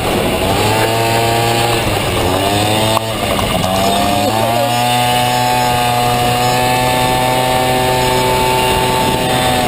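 Small two-stroke Honda Dio scooter engine, fitted in a Honda Motocompo, running hard under way. Its revs rise, fall back about two to three seconds in, then climb again and hold at a steady high pitch.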